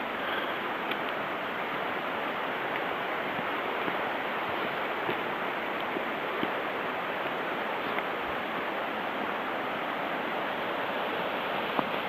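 Steady rush of a mountain stream's flowing water, an even hiss with no change in level, with a few faint clicks over it.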